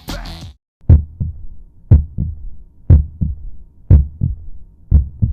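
Heartbeat sound effect: a low double thump, strong then weak, about once a second, five times over.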